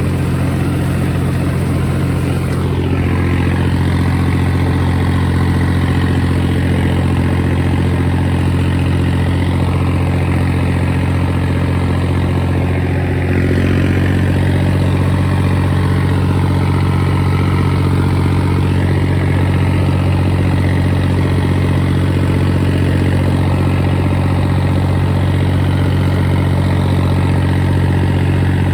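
John Deere 5039 tractor's diesel engine running steadily at a constant pitch, getting slightly louder about 13 seconds in.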